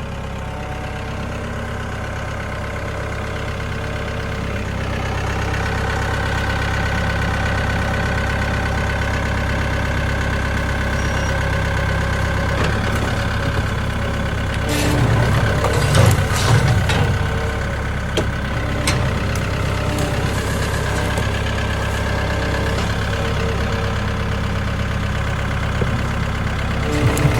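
Vehicle engine running steadily, getting louder a few seconds in. Around the middle comes a cluster of clanks and knocks.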